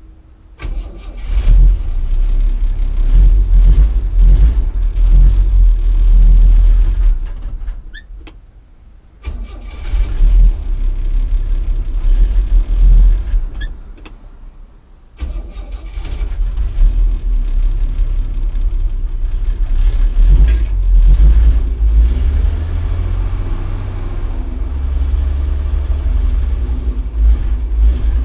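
Chevrolet 230 cubic-inch inline-six engine in a 1964 Chevy C10 starting and running rough with a misfire. It fades out and stops twice and is restarted each time, then keeps running unevenly.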